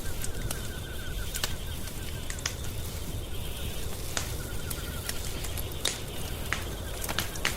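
Wood fire crackling, with sharp snaps scattered irregularly over a low steady rumble. A rapid pulsing trill-like call comes and goes in the background, about twice.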